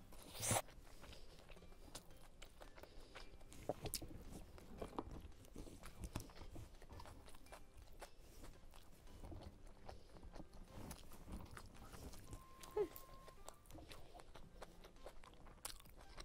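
A person chewing food close to the microphone, with wet mouth sounds and scattered soft clicks. A sharper click comes about half a second in.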